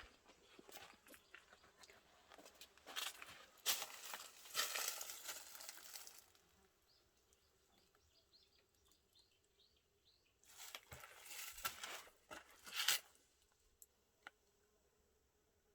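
Two spells of crunching and rustling, the first lasting about three seconds and a shorter one after a pause, with a run of faint, short, high chirps in the quiet between them.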